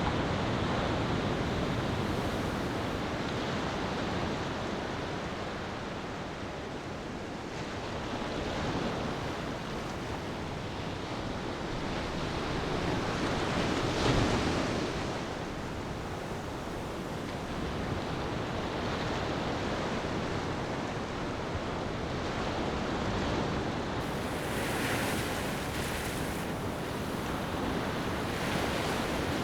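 Ocean surf washing onto a shore in a steady wave ambience, one wave swelling loudest about halfway through.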